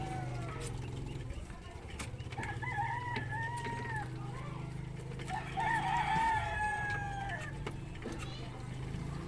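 A rooster crowing twice, each crow a long, wavering call of about one and a half to two seconds, over a steady low hum.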